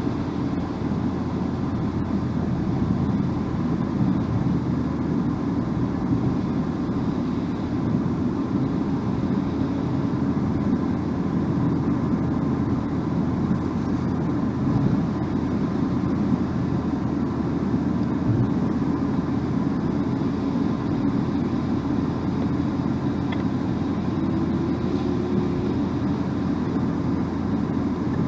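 Steady road and tyre noise of a car driving at a constant speed: an even, low rumble with no breaks.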